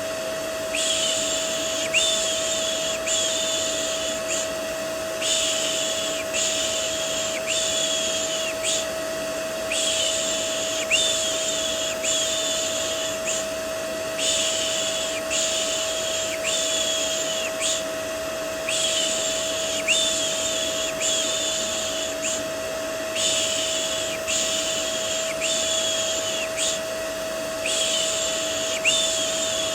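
Rhythmic shushing, a 'shh' about once a second in runs of four with short pauses between, laid over the steady hum of a vacuum cleaner. This is white noise for soothing a fussy or colicky baby to sleep.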